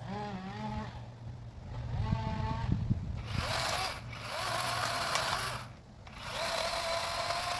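DeWalt electric chainsaw revving in short bursts, then cutting through conifer limb wood: a steady motor whine under a dense hiss of chips, broken by brief pauses about four and six seconds in.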